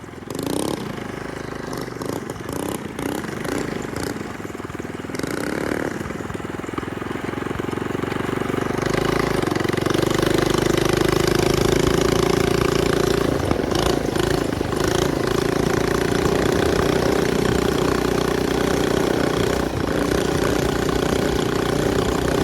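Minibike's small single-cylinder engine running while being ridden. It picks up revs around eight seconds in, then holds a steady, loud drone.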